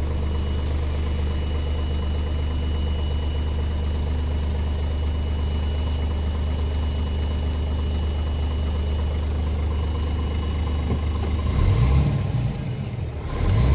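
Scania R450 truck's 13-litre six-cylinder diesel idling steadily, then revved up near the end, dipping briefly before rising again.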